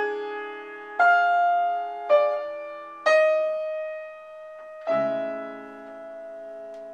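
Piano chords struck about once a second, five in all, the last one held and left to ring: the ii–V–I progression in A major played back, moving through E dominant 7 toward A major.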